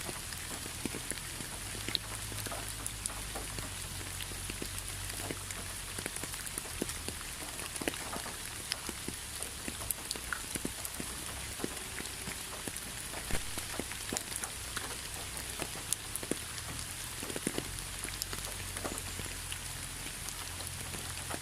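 Steady rain falling, an even hiss with many individual raindrops ticking at irregular moments.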